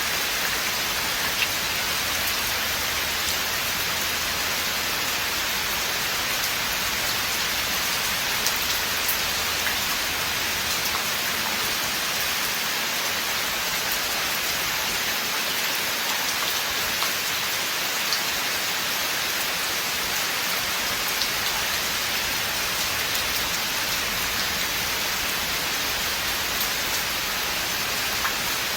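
Steady rain falling in a forest, an even hiss with scattered individual drops ticking on the surfaces.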